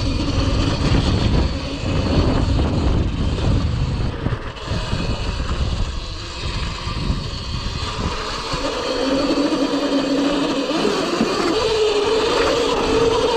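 Wind buffeting the microphone while riding a Cake Kalk OR electric dirt bike. About two-thirds of the way in, the bike's electric motor whine comes up as a steady tone and steps higher in pitch near the end.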